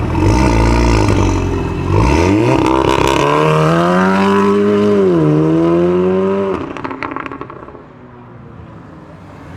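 A car engine accelerating hard away, its revs climbing, dipping briefly at a gear change about five seconds in and climbing again, before the sound falls away as the car leaves.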